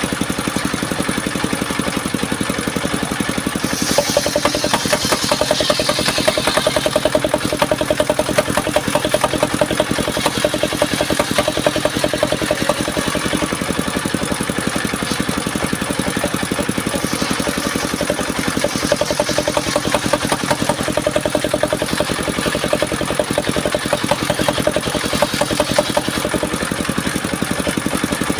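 Engine of a circular sawmill running steadily with a fast even pulsing. A hissing rush comes in about four seconds in and again twice later, as the blade cuts through soft mahogany.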